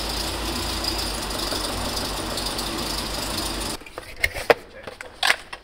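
Range Rover Classic's carburetted V8 engine idling steadily under an open bonnet while its carburettors are worked on. The owner says it runs a little rough at low revs, and the mechanic thinks it is running too lean. The engine sound cuts off abruptly about two-thirds of the way through, leaving a few light taps and rustles from a cardboard kit box being opened.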